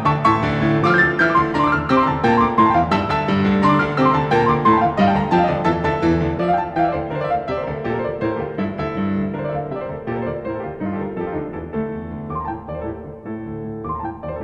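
Background piano music playing a flowing run of notes, growing softer in the second half.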